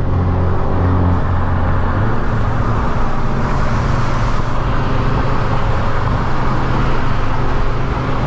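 Car engine running steadily under way, with road noise. The engine note steps up slightly about two seconds in.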